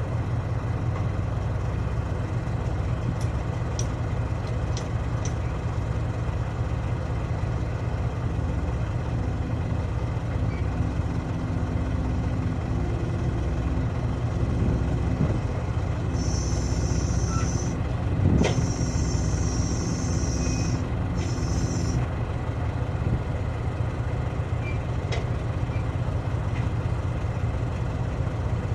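A heavy diesel engine running steadily at idle. About two-thirds of the way in comes a hiss of compressed air in three short bursts over some six seconds, with a sharp click among them.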